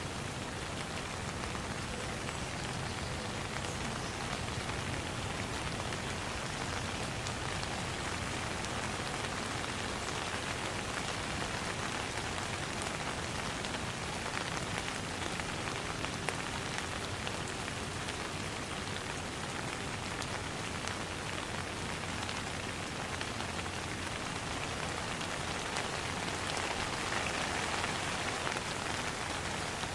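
Steady rain falling on a pond, with many fine drop patters throughout, growing slightly heavier near the end.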